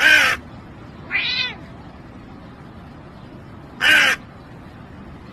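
A crow cawing and a cat meowing back and forth: a loud harsh caw at the start, a single meow about a second later, and a second caw about four seconds in.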